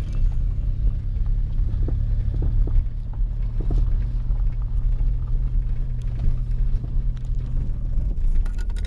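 Geo Metro engine running with a steady low rumble, freshly installed and on its first test drive.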